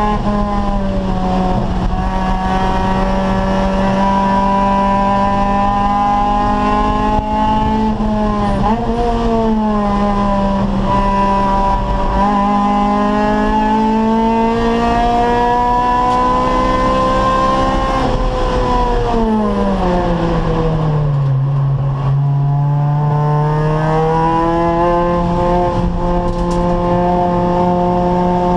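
Acura Integra race car's four-cylinder engine under hard racing load, revs climbing slowly as it pulls through a gear. There is a brief dip and recovery about eight seconds in. About two-thirds of the way through the revs fall steeply for a few seconds, then climb steadily again.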